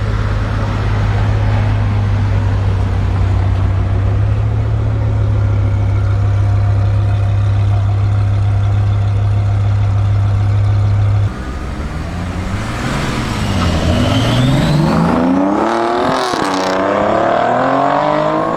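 A car engine holds a steady low drone, which cuts off suddenly about eleven seconds in. Engine revs then climb in rising sweeps that fall back several times, a car accelerating hard through its gears.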